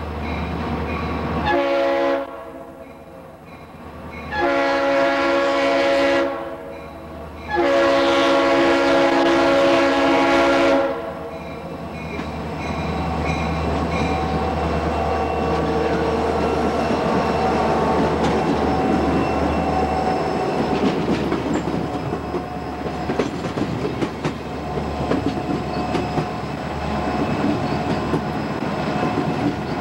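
Burlington Northern diesel locomotive's multi-note air horn sounding three blasts: a short one about two seconds in, then two long ones, the last about three seconds long. After the horn the locomotives' diesel engines and the rolling wheels of a container train carry on steadily as the train passes.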